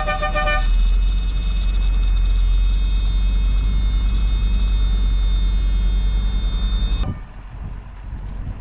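Truck diesel engine running with a deep, rapidly pulsing rumble. A few short high tones sound in the first second, and the rumble cuts off abruptly about seven seconds in.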